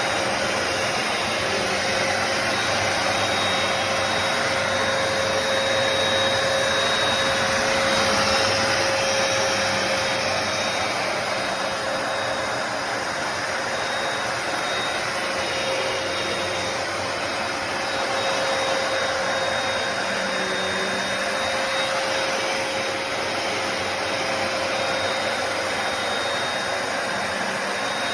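Hoover PowerDash Pet+ compact carpet cleaner running continuously: a steady motor rush with a constant whine.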